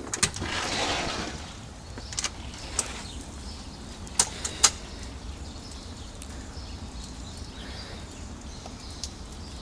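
A rushing swell of noise through the first second and a half, then steady low outdoor rumble broken by a few sharp knocks or ticks, the loudest a little over four seconds in.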